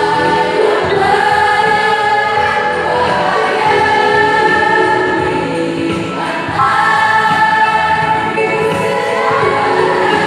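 A mixed choir singing sustained phrases in several parts, with a brief breath between phrases about six seconds in.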